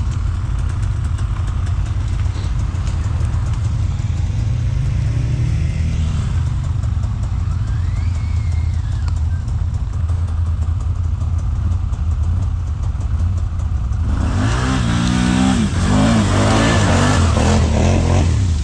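ATV engine running steadily, then about fourteen seconds in revved hard, its pitch rising and falling in the loudest part.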